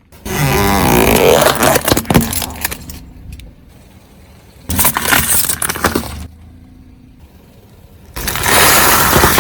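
A plastic toy excavator cracking and crunching as a car tyre rolls over and crushes it, in three loud spells of breaking plastic, with a low steady hum between them.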